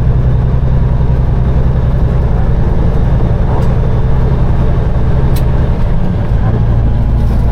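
Peterbilt 389 semi truck's diesel engine running steadily under way, heard from inside the cab as a loud, even low drone; the engine note shifts briefly about six seconds in.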